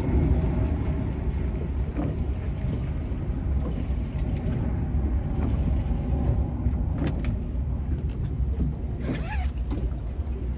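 Steady low rumble of a small fishing boat on the water, with a few faint knocks; the clearest comes about nine seconds in.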